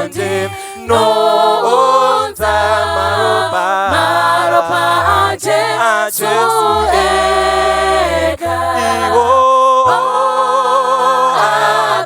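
A cappella vocal group singing a Shona hymn in close harmony, with long held chords over a low bass part that slides into its notes.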